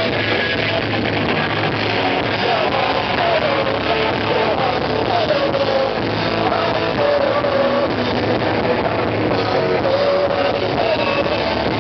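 Rock band playing with electric guitar and a singing voice carrying a wavering melody over a dense, steady accompaniment.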